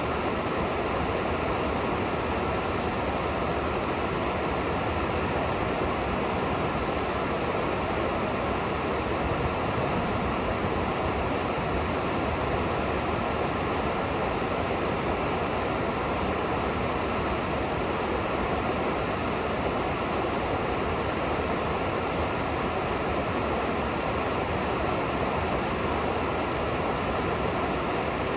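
Steady rushing of flowing river water, an even noise with no breaks or distinct splashes.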